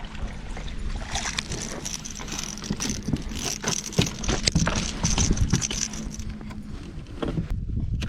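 A fishing kayak out on the water in wind: a steady low rumble of wind on the microphone, with scattered knocks and clicks from gear being handled aboard.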